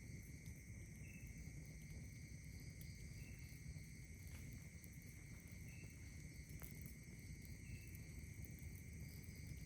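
Faint night insects, crickets among them, trilling steadily in several high tones, with a short chirp repeating about every two seconds. A few faint ticks sound over a low rumble.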